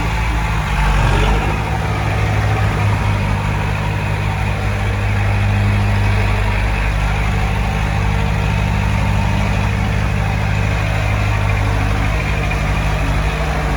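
Heavy earthmoving machine's diesel engine running steadily, swelling slightly a little after the start and again in the middle.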